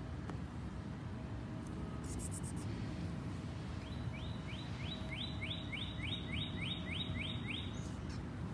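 A steady low rumble, with a bird calling a quick run of about a dozen short rising notes, about three a second, from about halfway through for some four seconds.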